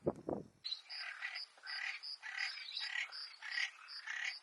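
A bird calling in a steady repeated series, about two calls a second. The calls are preceded by a brief low rumble of wind or handling on the microphone that cuts off suddenly about half a second in.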